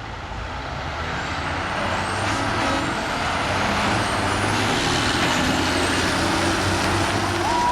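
Diesel semi trucks racing down the drag strip, their engine noise growing steadily louder as they come closer.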